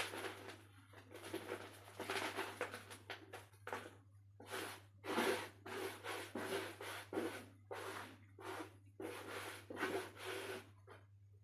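Dry red dirt being crumbled and crushed by hand: a run of short gritty crumbling bursts, roughly one or two a second, with brief gaps between them.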